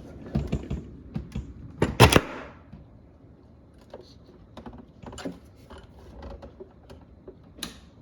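Irregular clicks and knocks of plastic freezer parts being handled as the ice maker's wiring is plugged back in. The loudest cluster of sharp knocks comes about two seconds in, followed by scattered lighter taps.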